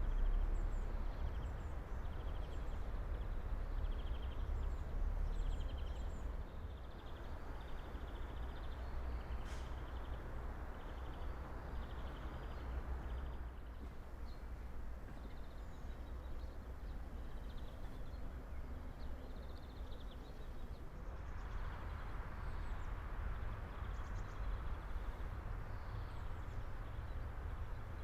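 Several small songbirds chirping and singing in short high phrases all through, over a steady low rumble of background noise.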